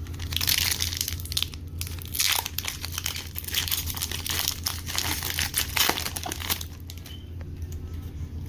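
Foil Pokémon booster pack wrapper crinkling and being torn open by hand: a run of irregular crackles that stops about a second before the end.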